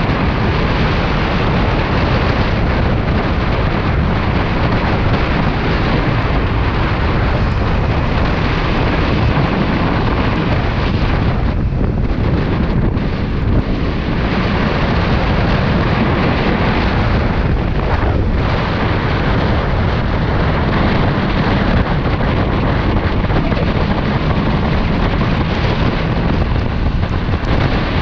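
Riding noise on a Kawasaki Ninja 400: heavy wind rushing over the microphone, mixed with the bike's 399 cc parallel-twin engine, steady and loud, easing briefly about twelve and eighteen seconds in.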